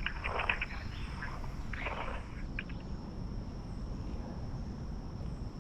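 Insects droning in a steady, high-pitched chorus over a low background rumble, with a few faint scuffs in the first couple of seconds.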